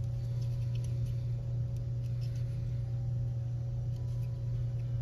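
Steady low hum with a fainter higher tone, and a few faint small ticks and clicks of small parts being handled.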